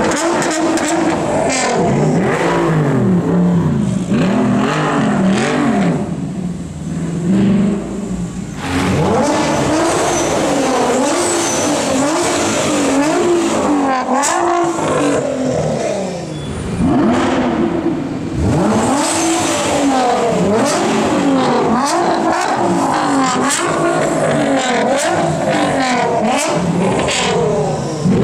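Nissan GT-R R35's twin-turbo V6, tuned to about 700 hp, through a straight-pipe exhaust, pulling hard through the gears. The pitch climbs and drops back at each shift, several times over, with brief lifts off the throttle in between.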